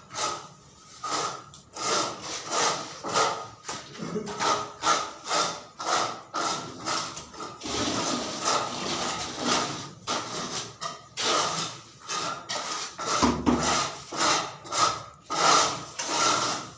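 A hand tool worked in quick repeated scraping strokes, about two a second, like sawing or rasping by hand.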